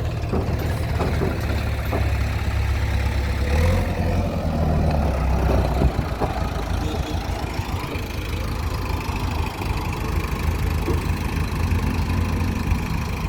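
Diesel engine of a heavy machine running steadily, its low hum shifting in pitch about four to six seconds in, with a few clicks near the start.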